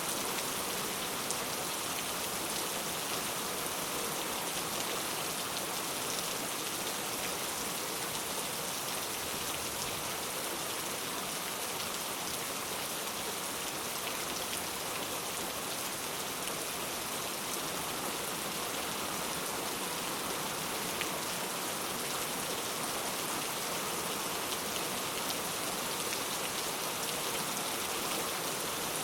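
Steady rain falling, an even hiss with faint fine drop ticks throughout.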